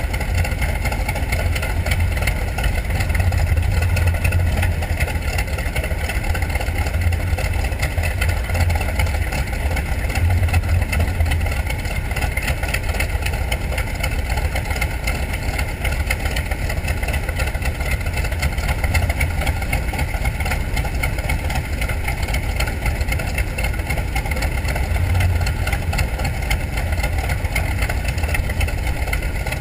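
TBM Avenger's Wright R-2600 fourteen-cylinder twin-row radial engine running steadily, its sound deepest and strongest at the bottom, with slight swells in level in the first several seconds.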